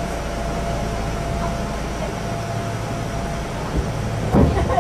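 Inside a stationary Kintetsu express train car: steady hum of the train's air conditioning and on-board equipment with a constant mid-pitched whine. A few clunks come near the end as the train is about to pull away.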